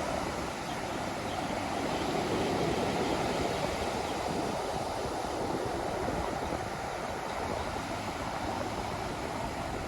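Ocean waves washing on a beach: a steady rush of surf that swells a little a couple of seconds in and eases off toward the end.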